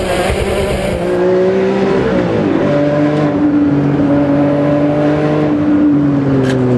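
Ferrari Enzo's V12 engine through a straight-piped, decatted exhaust, running hard under load. The note dips and picks up again about two and a half seconds in, like a gear change, then holds a steady high pitch.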